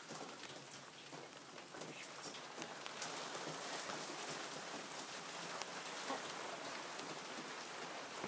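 Rain and water dripping and pattering on surfaces just after a hailstorm, with scattered sharp ticks; the patter thickens a little about three seconds in.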